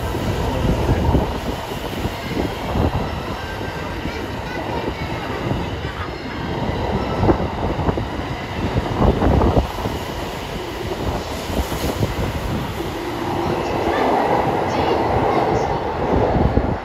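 E001 series TRAIN SUITE Shiki-shima passing through the station alongside the platform: a steady rumble of wheels on rail, with a few sharper clacks over rail joints.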